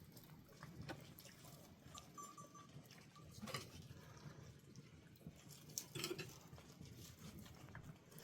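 Faint goat sounds: scattered ticks and knocks of the animals moving, with a couple of short calls about three and a half and six seconds in.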